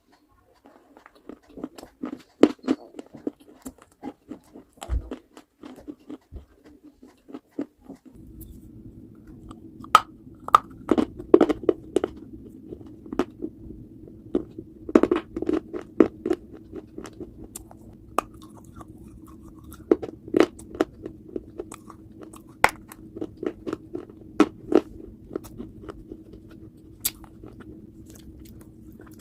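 Close-up biting and chewing of hard, brittle baked-clay pieces: a string of sharp cracks and crunches at irregular intervals. A steady low hum sets in about eight seconds in.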